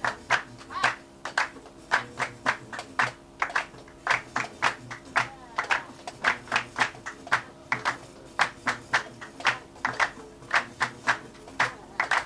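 Gnawa qraqeb (iron castanets) clacking in a quick repeating pattern of about four to five sharp metallic strokes a second, over a low steady tone.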